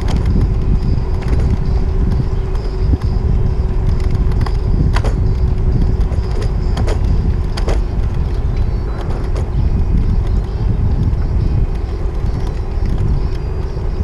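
City traffic and road noise heard while riding a bicycle, with a heavy low rumble, a faint steady hum and a few sharp clicks or knocks around the middle.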